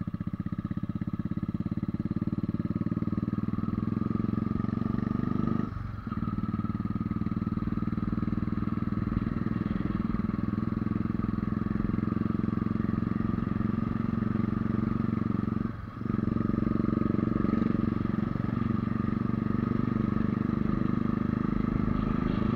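Motorcycle engine running steadily under load on a mountain climb, its sound dipping briefly about six seconds in and again about ten seconds later. The rider finds the engine short of power in the thin, low-oxygen air at altitude.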